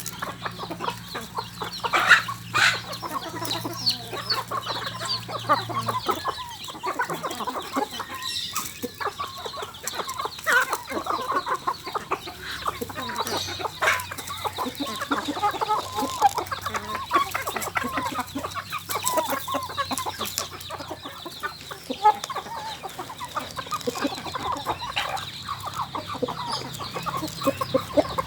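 Kampung chickens (Indonesian free-range village chickens) clucking over and over, many short calls overlapping throughout, with a low steady hum underneath that is stronger for the first six seconds.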